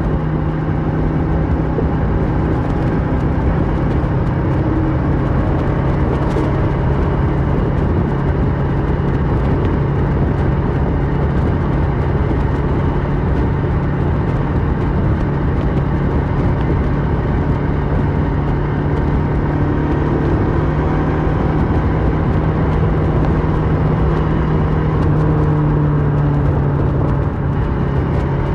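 Kawasaki Versys 650 parallel-twin engine with a Mivv slip-on exhaust running under way at a steady pitch.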